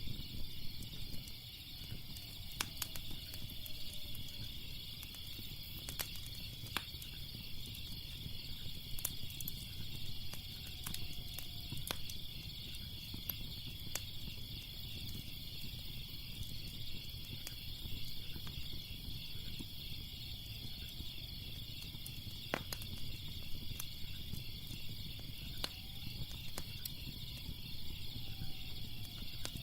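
Wood fire crackling, with scattered sharp pops every few seconds over a low, steady rumble, set against a continuous high, finely pulsing trill.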